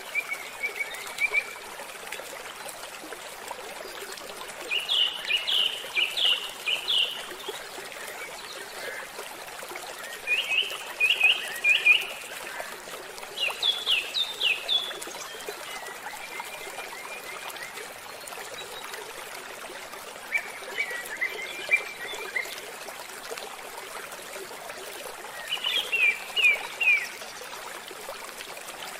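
Steady rush of falling water from a waterfall, with a bird singing short phrases of quick chirps over it about every four to five seconds.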